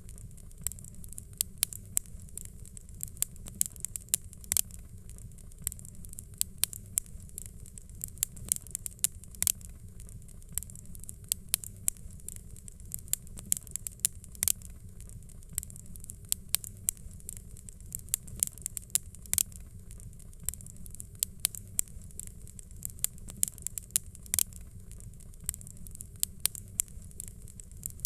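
Fire crackling: irregular sharp pops and snaps, several a second, over a steady low rumble and hiss of burning flames.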